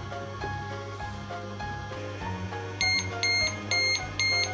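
Background music, and from a little past halfway a toy microwave's electronic beeper sounding short, high beeps about two a second.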